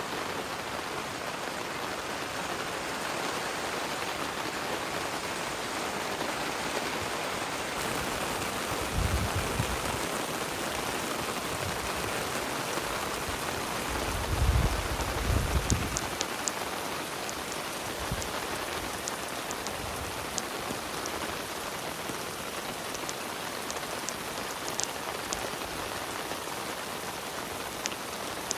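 Heavy rain falling steadily. Low rumbles come through about nine seconds in and again around fifteen seconds, and faint sharp ticks of drops are scattered through the second half.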